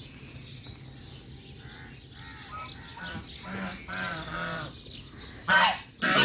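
Birds calling: a run of repeated harsh calls through the middle, then two louder calls near the end.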